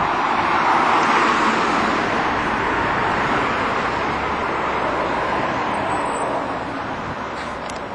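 Road traffic passing close by, a rushing of tyres and engines that is loudest about a second in and slowly fades away. A few faint clicks near the end.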